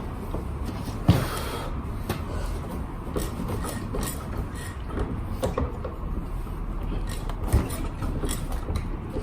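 Hand-tool work on a Honda Today scooter's seized rear wheel: scraping and rubbing with frequent small metal clicks, and two sharp knocks, about a second in and again later.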